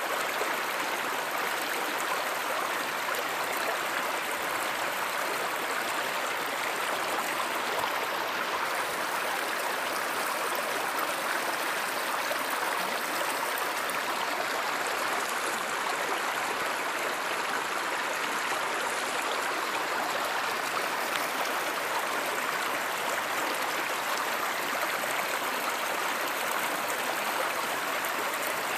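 Running water of a stream, a steady unbroken wash of noise.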